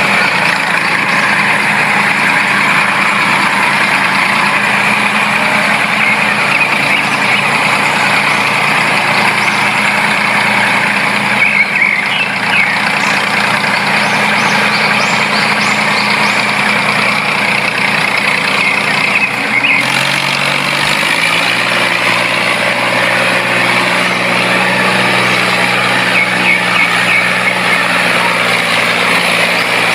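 DIY mini tractor running steadily with a continuous mechanical hum. Its low tone changes pitch after a click about twenty seconds in.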